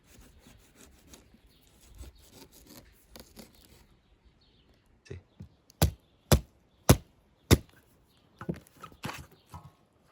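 Faint scraping and rustling, then four loud, sharp chopping blows about half a second apart, followed by a few lighter knocks.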